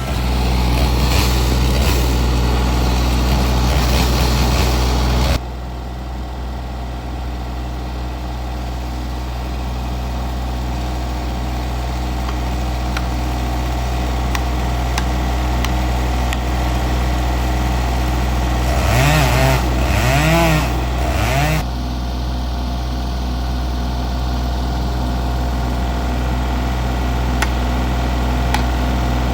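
An engine running steadily, revved up three times in quick succession about two-thirds of the way through.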